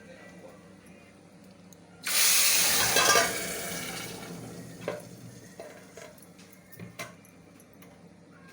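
Water gushing briefly, starting suddenly about two seconds in, loud for about a second and then fading away, followed by a few light clicks.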